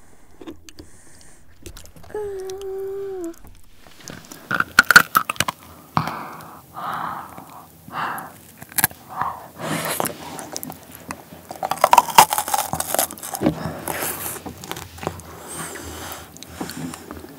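Chocolate bark topped with crispy dried fruit being bitten and chewed close to the microphone, in clusters of crisp crunching and crackling as the dried fruit breaks. A brief hummed "mm" comes a couple of seconds in, before the crunching starts.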